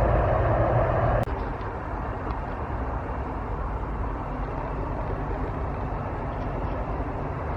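Heavy truck engine running loudly close by, cutting off abruptly with a click about a second in. A quieter, steady rumble of road traffic follows.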